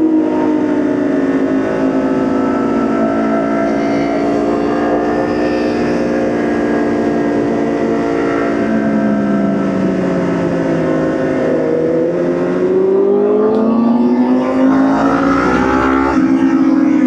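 Motorcycle engine running while riding. Its pitch falls as it slows about ten seconds in, then climbs again as it accelerates.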